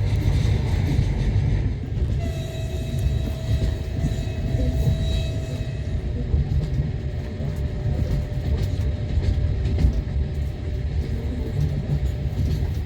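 Passenger train running along the track: a steady rumble of wheels on rails heard from inside the carriage. About two seconds in, a high held tone joins it for roughly four seconds, then fades.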